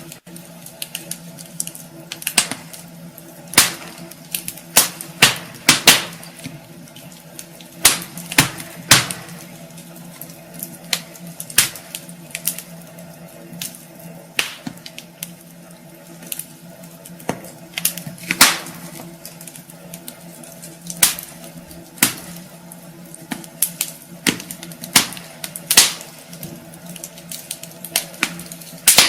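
Wood fire in a fireplace crackling, with irregular sharp pops, some much louder than others, over a faint steady hum.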